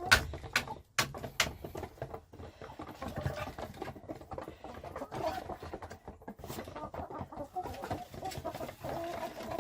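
Chickens clucking in a coop, with a few sharp knocks in the first second or so.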